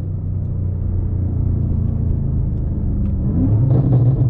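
BMW M5 Competition (F90) twin-turbo V8 running steadily under light throttle while driving, a low rumble with a short rise in pitch about three seconds in.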